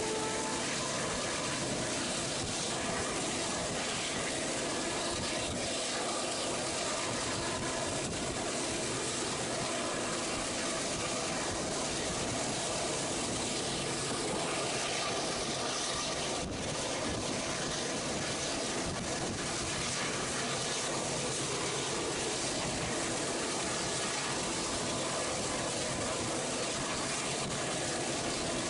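Passenger train running along the track, a steady rushing noise of wheels and air that barely changes.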